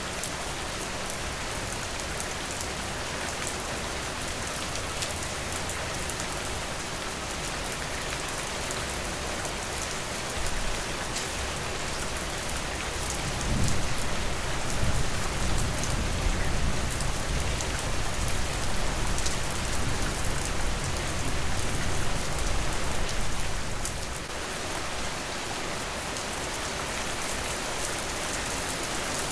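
Steady rain falling on a surface, a dense hiss with fine patter of drops. About halfway through a low rumble swells in for roughly ten seconds, then fades back to the rain alone.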